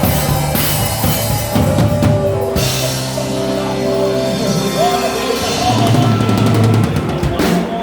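Live worship band playing: a drum kit with bass drum and cymbals over a bass guitar line and long held chords, with a quick run of drum strikes near the end.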